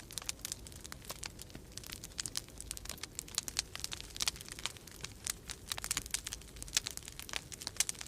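Wood fire crackling in a fireplace, a steady stream of irregular sharp pops and snaps, over a low steady rumble of storm wind.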